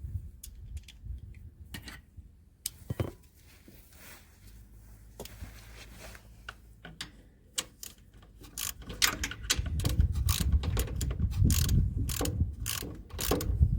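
A socket ratchet clicking as it works a bolt on a mower's hydro filter cover: a few scattered clicks at first, then a fast, louder run of ratcheting clicks from a little past halfway.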